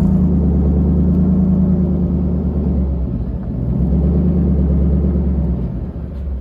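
Jeep's engine running steadily under load, heard up close as a loud low hum that eases briefly about three seconds in.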